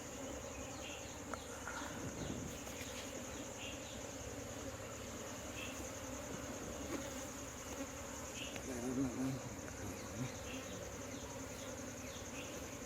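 Honeybees buzzing around an opened wild colony as its comb is handled: a steady hum, with a constant high whine above it.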